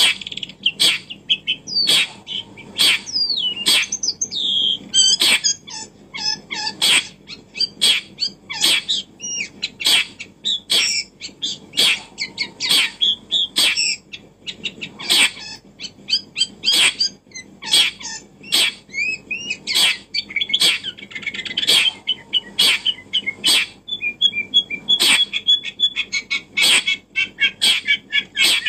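A bird chirping and warbling in quick, wavering notes. Sharp clicks repeat roughly once a second over it and are the loudest sounds.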